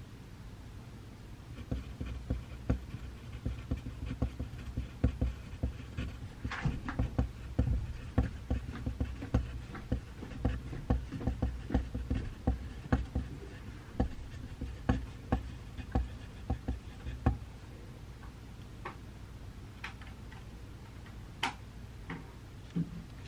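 Pencil writing on paper at a desk: a quick run of taps and strokes for about fifteen seconds over a steady low hum, then a few scattered scratches near the end.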